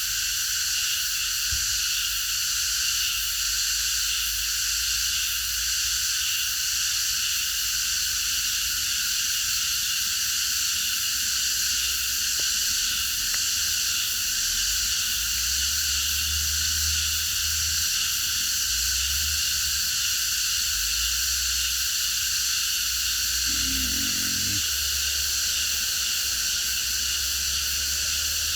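A dense chorus of cicadas buzzing steadily and without a break, a high-pitched shimmering drone.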